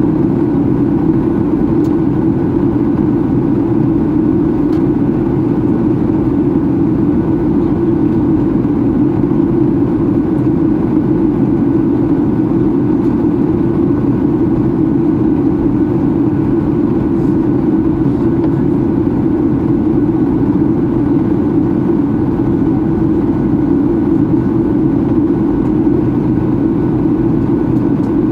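Steady cabin noise inside a Boeing 737-800 in descent: a dense, even low rumble from its CFM56-7B engines and the airflow past the fuselage, with a faint steady hum above it.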